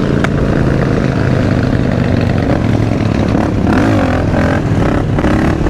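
Supermoto motorcycle engine running steadily as the bike is ridden.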